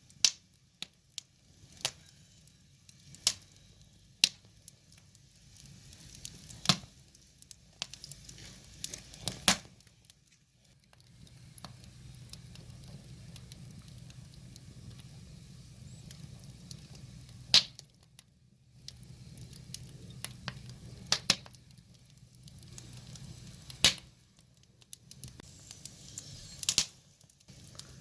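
Wood fire crackling, with irregular sharp pops and snaps of burning logs. Under the pops is a low, steady rush of flame that is strongest through the middle.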